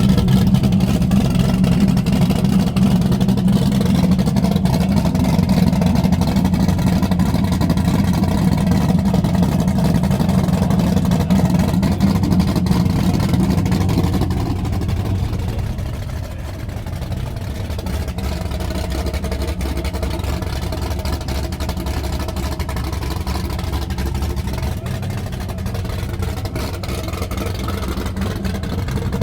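Car engine running steadily at a constant speed, easing to a slightly quieter, lower note about halfway through.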